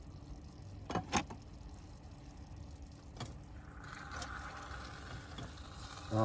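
Two quick knocks of utensil against pot about a second in, and another after three seconds. A pot of rice in sauce then starts simmering audibly from about four seconds in.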